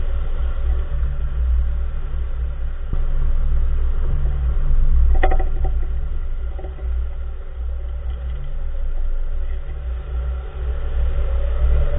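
2014 Nissan March on the move, with a steady low road rumble. A faint knock comes about three seconds in and a sharper metallic clunk with a brief ring about five seconds in: the unexplained clunk from the front wheel area.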